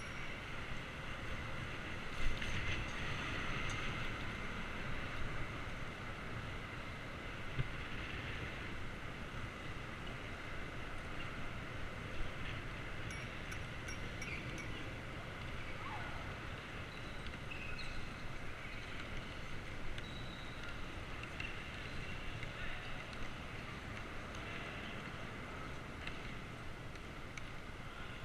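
Steady wind and rolling noise of a bicycle ride, heard through an action camera's microphone, with a few faint short high tones and ticks.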